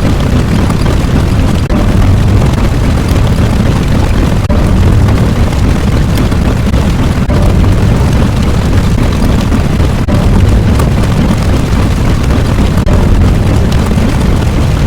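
Loud continuous rumbling noise, heaviest in the low end, broken by a few very short dips a few seconds apart.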